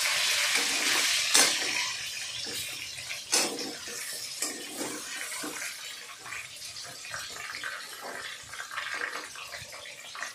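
Chicken pieces sizzling in hot mustard oil in a kadhai, the sizzle dying down over the seconds as the flame is lowered, with a few sharp knocks as of a utensil against the pan.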